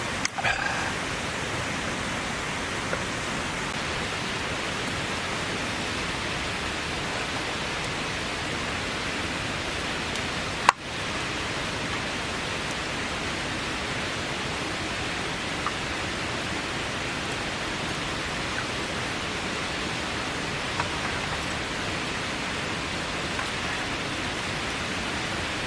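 Heavy rain falling in a steady, even hiss, with one sharp click about ten seconds in.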